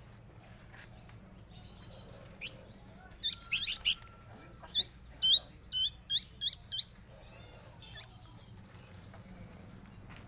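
Pet bird chirping: a quick run of short, high, rising chirps in the middle, the loudest about five seconds in.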